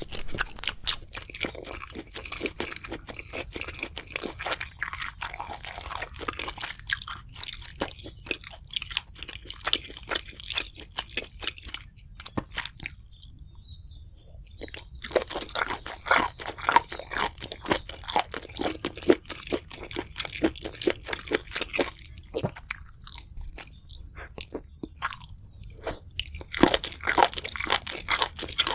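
Close-miked eating: a person biting and chewing crispy fried food in dense runs of crunches, with two short quieter pauses, one near the middle and one about two-thirds through.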